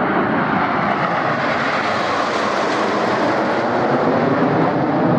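Red Arrows' BAE Hawk jet trainers passing by with a loud, steady jet roar. The hiss in the roar grows brighter toward the middle and then dulls as the aircraft go past.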